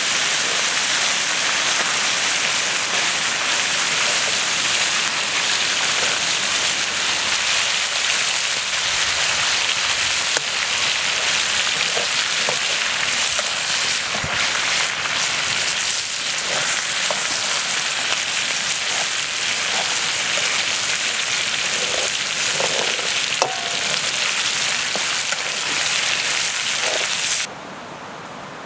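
Meat sizzling in hot oil in a wok-shaped metal pan over a wood fire: a steady, loud hiss with small pops. A metal ladle stirs through the pan about halfway through, and the sizzle cuts off abruptly near the end.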